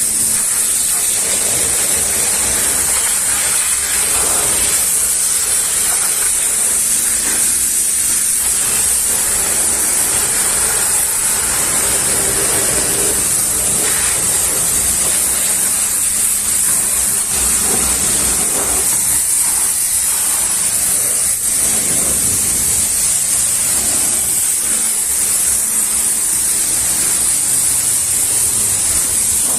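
High-pressure washer spraying water onto a car, a steady hiss over a constant low hum.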